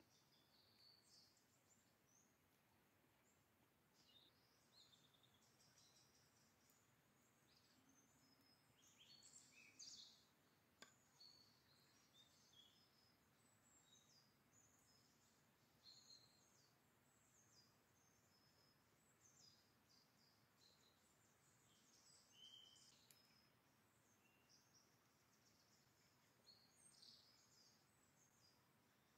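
Very faint woodland ambience with small birds singing: many short, high chirps scattered throughout over a quiet background hiss.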